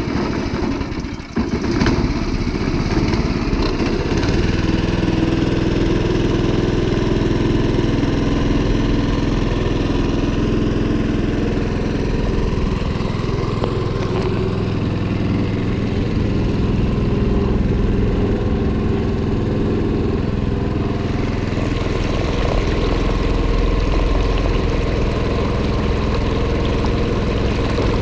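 Small boat outboard motor picking up about two seconds in, then running steadily at an even speed.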